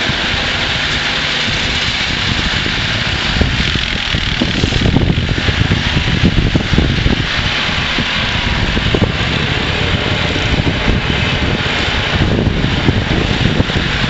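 Ingersoll garden tractor engine running steadily while snowblowing. An uneven low rumble joins about four seconds in.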